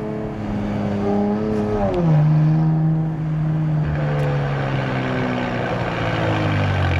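Nissan Z Nismo's twin-turbo V6 running under way with Nismo cold air intakes and track exhaust. The engine note climbs slightly, drops sharply about two seconds in, then holds steady while a rushing noise builds toward the end.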